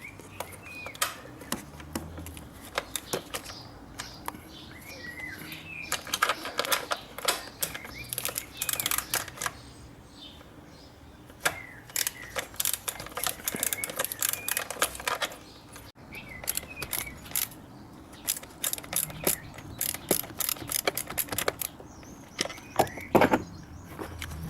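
Ratchet with an 8 mm socket clicking in quick runs of strokes, three runs of a few seconds each, undoing the single screw that holds the MAP sensor. Birds chirp now and then in the background.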